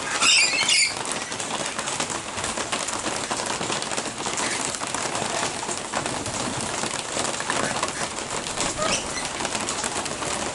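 Steady rain falling, with a shrill parrot screech in the first second and a fainter brief call near the end.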